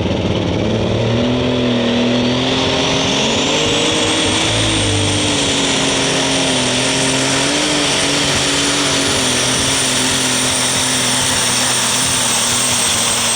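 Massey Ferguson super stock pulling tractor's turbocharged diesel running flat out under load on a pull. A high turbo whine climbs over the first four seconds and holds high over a steady engine note, then drops away at the very end.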